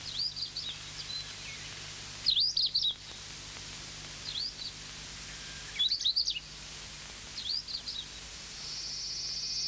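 A small songbird chirping in five short bursts of quick high notes, one every second and a half or so, over a steady faint hiss; near the end a high, even insect drone fades in.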